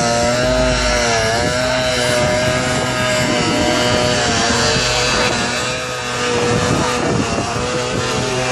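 Vehicle engine running hard at high revs, its pitch wavering up and down.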